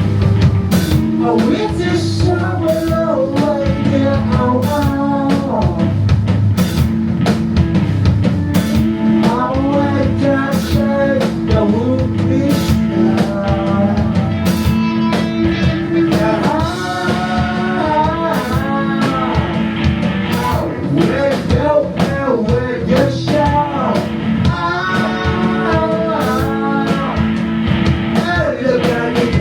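Live rock band playing: drum kit with regular cymbal strokes, bass and electric guitar, with a bending, wavering lead melody above them.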